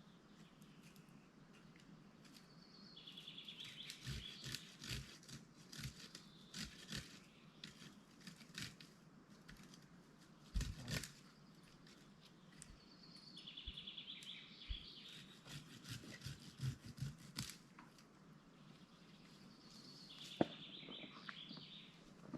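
A songbird singing three short trilled phrases several seconds apart, over irregular crackling and popping from a wood fire.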